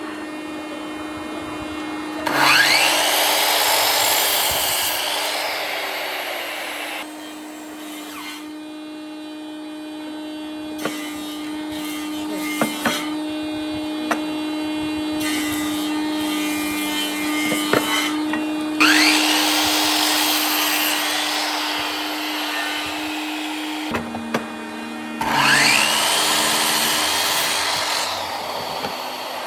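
Electric power tool cutting wood, its motor humming steadily. Three louder stretches of cutting, each two to three seconds long, come a few seconds in, past the middle, and near the end, with a few sharp knocks between them.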